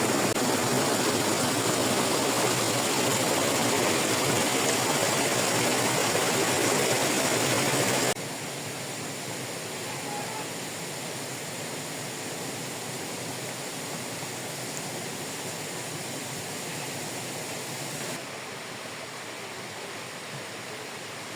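Steady rush of flowing water. It drops abruptly to a quieter level about eight seconds in, and a little further near the end.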